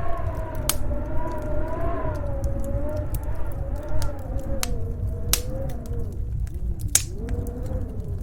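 Wood fire crackling with scattered sharp pops over the low rumble of a snowstorm wind, which howls in a wavering tone that slowly rises and falls.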